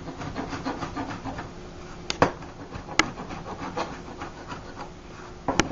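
Knife chopping fresh parsley on a cutting board: a quick, uneven run of chops with a few sharper knocks of the blade against the board.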